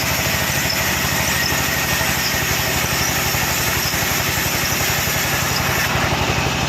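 Sawmill machinery running steadily, with a fast, even low throb and a faint high whine over it.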